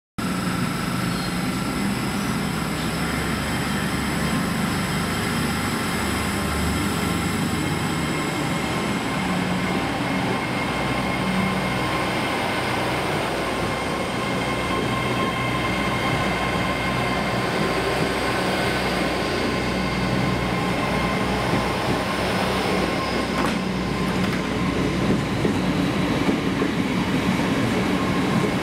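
Two coupled GWR Intercity Express Trains (Hitachi Class 800-series units) pulling away, a steady rumble with a high electric whine, getting slightly louder near the end.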